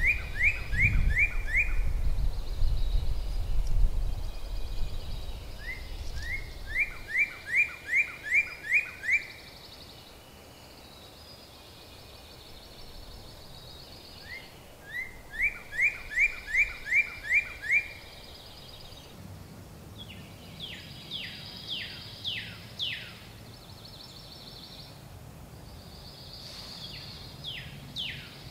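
Songbird singing: a phrase of about seven quick, evenly spaced notes repeated three times, then series of falling notes in the second half. A low rumble runs under the first several seconds.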